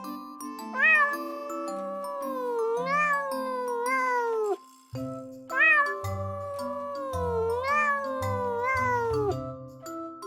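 Domestic cat meowing: two long, drawn-out meows, each rising at the start, wavering, then sliding down in pitch at the end, with a short gap between them. Light background music with glockenspiel-like mallet notes plays under them.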